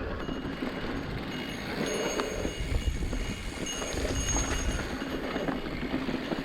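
Mountain bike rolling over a dirt trail: steady, uneven tyre and chassis rattle with rumbling wind on the camera microphone.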